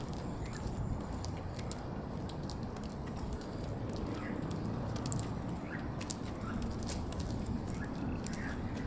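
A few faint short chirps, probably birds, sound from about four seconds in over a steady low background rumble, with light scattered clicks.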